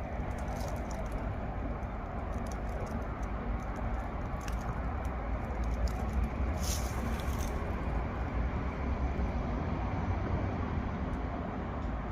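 Steady low rumble of distant traffic, with scattered light crackles of dry vegetation underfoot and a short rustle about seven seconds in.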